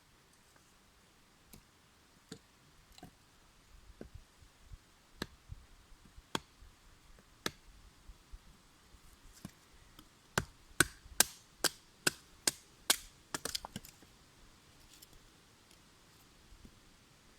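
Sharp, woody knocks: a few scattered ones, then a quick run of about ten louder ones, around three a second, that fade out.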